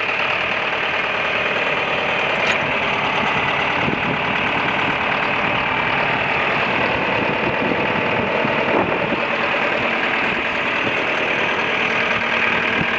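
1966 John Deere 3020 tractor's four-cylinder engine idling steadily.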